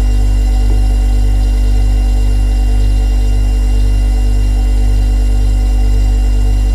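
Refrigerator compressor running: a steady, loud hum with a deep drone and several fixed higher tones over it.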